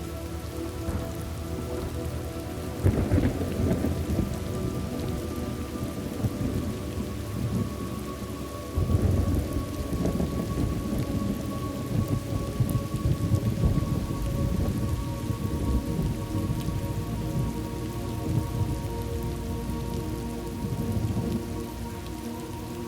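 Thunderstorm: steady rain falling, with rolling thunder. A first peal comes about three seconds in, and a louder one about nine seconds in rumbles on in waves.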